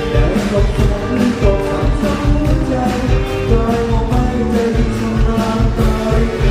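Live pop-ballad band music: drums keeping a steady beat under guitar and keyboard, with a male voice singing.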